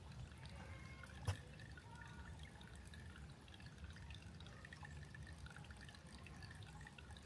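Faint trickle of water in a shallow creek, with a single sharp click about a second in.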